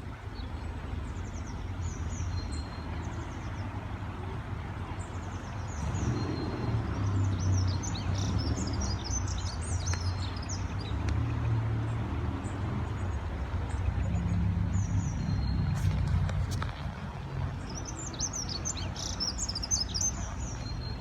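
Small songbirds chirping and twittering in quick high notes, busiest about six seconds in and again near the end, over a steady low rumble that swells through the middle.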